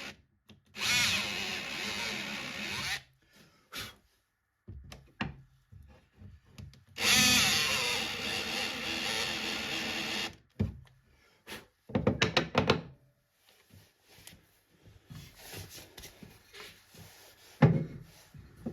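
A power drill running in two bursts, about two and three seconds long, with short clicks and knocks between and after them.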